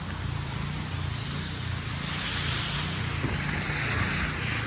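City street traffic: a steady low engine rumble, with a vehicle's tyres hissing over the wet, slushy road, swelling from about two seconds in.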